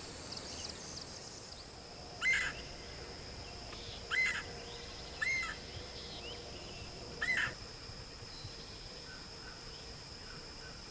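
A bird gives four short, arched calls spaced one to two seconds apart, over a steady high-pitched insect drone.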